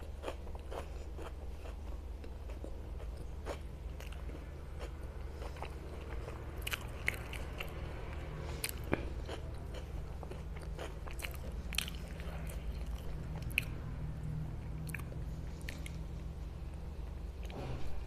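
Close-miked chewing and wet mouth clicks from someone eating pav bhaji (soft buttered bread rolls dipped in spiced vegetable mash), with a louder bite near the end. A steady low hum runs underneath.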